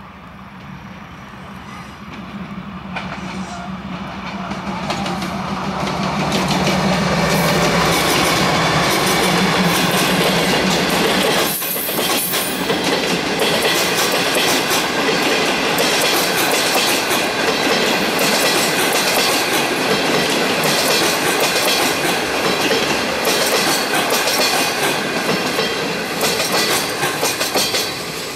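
Diesel-hauled passenger train approaching and passing close by. The locomotive's low engine drone grows louder over the first several seconds and drops away about eleven seconds in. After that, the coaches' wheels clatter steadily over the rail joints as the cars go past.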